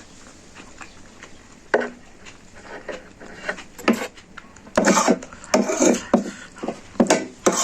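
Eating a bowl of spicy instant noodles up close: a utensil knocks and scrapes against the bowl. A single knock comes early, and a busy run of clatter and eating noises starts about halfway through.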